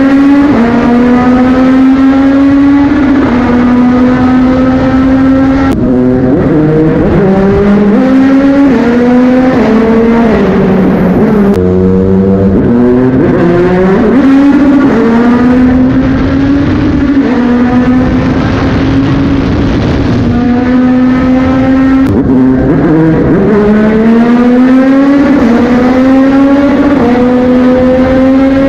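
Yamaha MT-09 inline-three motorcycle engine, loud, held at steady revs for long stretches and accelerating in rising runs. Near 6 s, 12 s and 22 s the pitch breaks and drops sharply before climbing again, the quick gear changes of a quickshifter.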